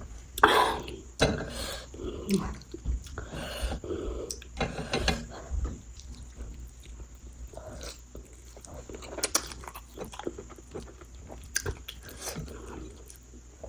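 A person chewing and biting food close to the microphone, with irregular crunches and mouth clicks, heavier in the first few seconds.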